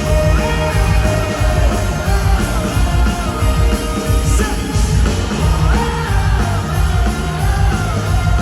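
Live rock band playing with a lead vocal singing over drums, bass and guitars, loud and continuous.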